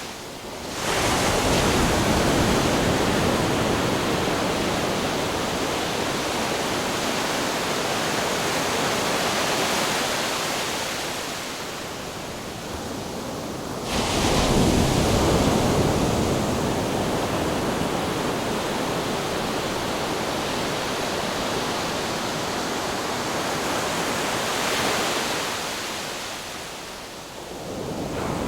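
Ocean surf: a continuous wash of breaking waves that surges heavily about a second in and again about halfway through, then ebbs near the end.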